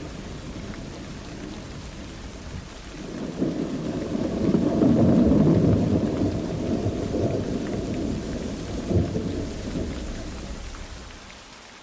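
Thunderstorm recording: steady rain with a long roll of thunder that builds about three seconds in, is loudest around five seconds, has a sharper crack near nine seconds and then rumbles away.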